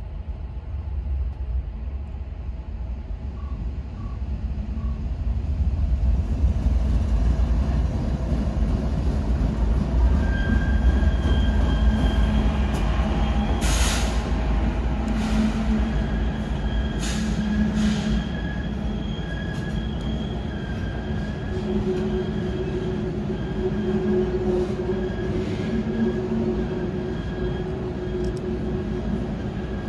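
Diesel locomotives of a BNSF-led tank-car oil train running around a curve, a deep engine rumble that swells from a few seconds in. From about ten seconds in, a thin, steady wheel squeal from the train on the curve.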